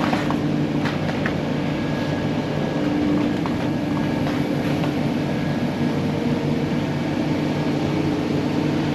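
Steady machinery hum aboard a docked cargo ship, with a constant low drone and a few faint clicks in the first second or so.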